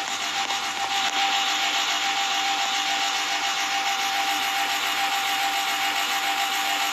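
Air conditioner running: a steady rushing noise with a steady tone held through it.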